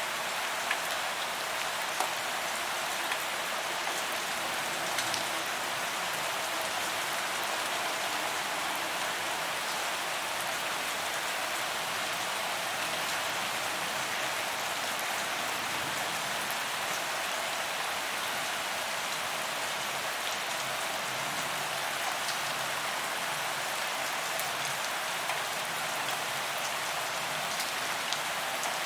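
Steady rain falling on a paved promenade, an even hiss with scattered sharper taps of individual drops hitting the pavement.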